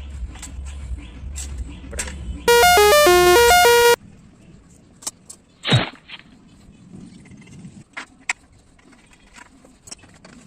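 A short electronic jingle of quick, bright notes, lasting about a second and a half, the loudest sound here. Under it a low hum stops about four seconds in; later comes a single falling swoosh, then scattered light clicks.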